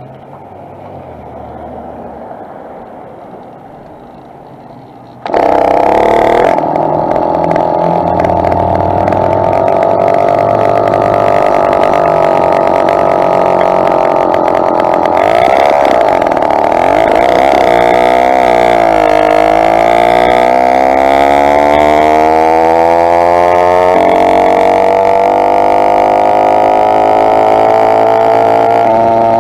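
Motorized bicycle's two-stroke engine starting suddenly about five seconds in, then running loud and high-pitched. Its pitch dips and climbs again about two-thirds of the way through, then holds steady.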